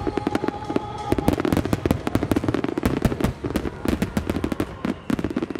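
Large fireworks starmine: many shells fired and bursting in rapid succession, a dense run of bangs and crackle with rumble underneath.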